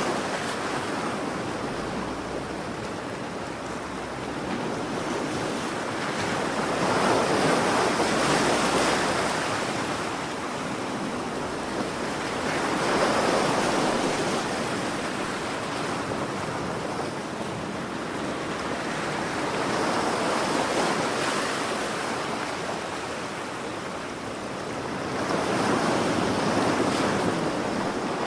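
Ocean waves washing in, swelling and fading about every six seconds.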